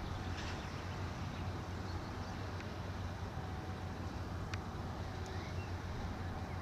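Distant diesel farm machinery running steadily: a constant low engine hum under a haze of noise, with a few faint ticks.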